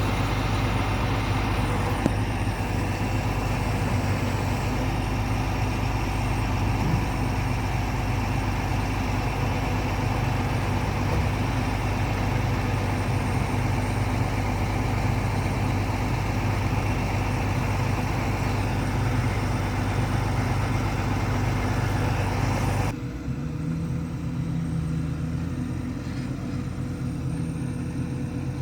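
A motor vehicle's engine running steadily with a deep rumble, the sound dropping abruptly to a quieter, lower hum about three-quarters of the way through.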